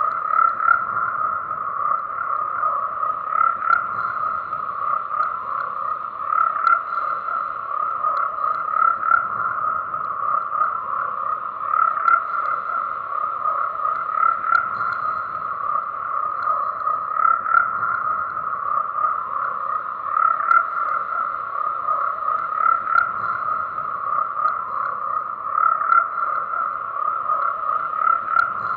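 A dense chorus of frogs croaking, many calls overlapping into one unbroken sound that swells louder every couple of seconds.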